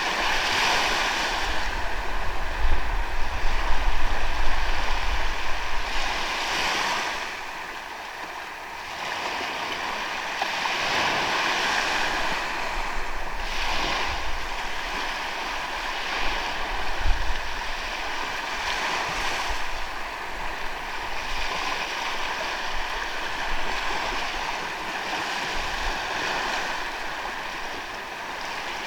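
Sea waves breaking and washing onto a sandy beach, the surf swelling and ebbing, loudest in the first few seconds. Wind buffets the microphone, giving a low rumble under the surf.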